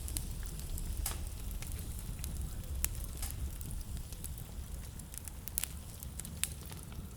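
Wood fire in a fireplace crackling, with a handful of sharp, irregular pops over a steady low rumble.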